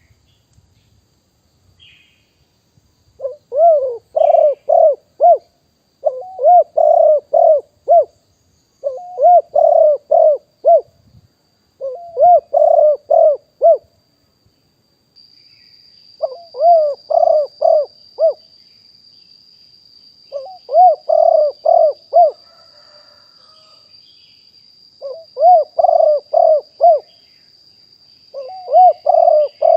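Spotted dove cooing in short phrases of four or five quick coos, repeated about every three seconds. This is the call of a decoy dove, used to lure wild doves. A faint steady high-pitched whine comes in about halfway through.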